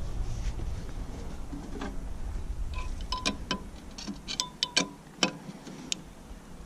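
Steel wrench clicking and clinking against JIC hydraulic hose fittings as they are snugged up, a run of sharp irregular metal ticks from about three seconds in, some with a short ring. A low rumble fades out in the first few seconds.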